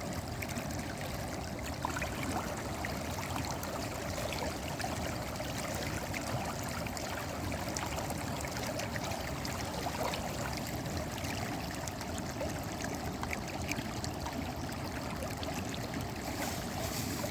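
Fish frying in hot oil in a pan: a steady sizzle, dotted with small crackles and pops.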